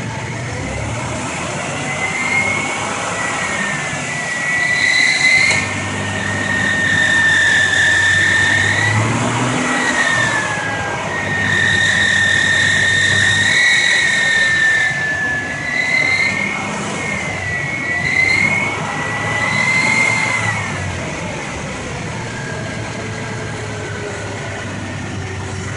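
2000 Ford Explorer's 4.0 SOHC V6 engine idling and being revved repeatedly, with a high-pitched whine that rises and falls with engine speed; it settles back to idle in the last few seconds.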